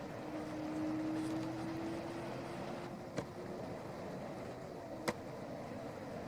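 Steady hum of distant motor traffic, with a drawn-out engine drone that rises slowly through the first five seconds. Two sharp clicks come about three and five seconds in.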